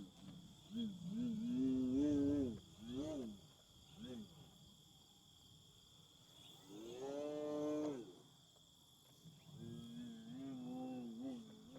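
Cattle mooing in a series of calls, the longest lasting over a second, over a steady high thin whine.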